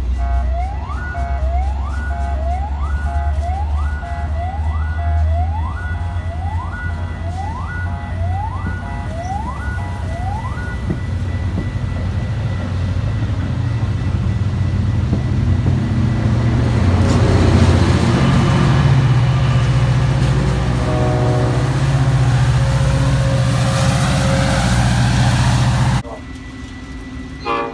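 Train rumbling past, the rumble heavy and steady and a broad rushing noise building up from halfway through, then cutting off suddenly near the end. In the first ten seconds a siren-like rising wail repeats about once a second over the rumble.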